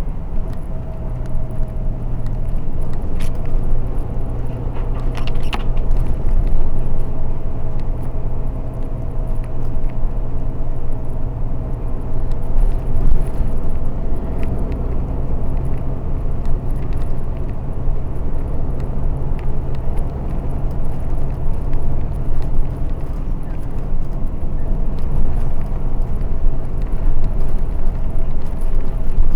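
BRT route bus running steadily along a dedicated busway: a constant engine and drive hum with road noise and a steady higher whine, and a few light rattles a few seconds in.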